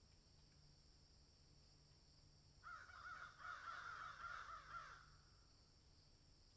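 A bird calling: a quick chattering run of repeated harsh notes lasting about two seconds, starting a little under three seconds in, over faint outdoor background hiss.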